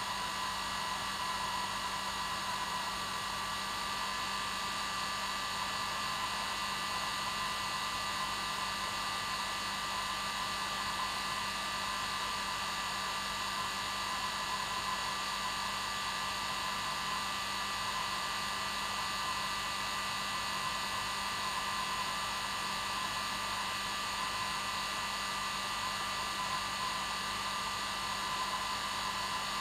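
Hair dryer running steadily on its normal setting, a constant rushing noise with a fixed whine and a low hum, used as white noise to settle a baby to sleep.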